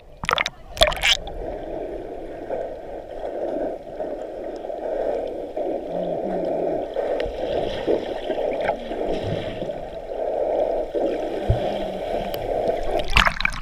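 Sea water gurgling and sloshing, heard muffled, with splashes in the first second and again just before the end.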